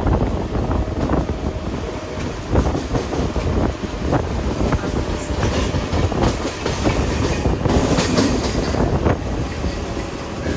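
Mumbai suburban local train running along the track: a steady low rumble with irregular clacks of the wheels over rail joints and points.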